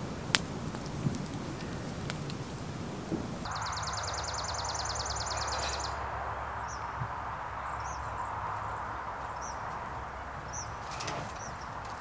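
Campfire burning with a sharp pop early on. The sound then changes abruptly to outdoor birdsong: a bird's rapid high trill for about two and a half seconds, followed by several short, scattered chirps over steady low background noise.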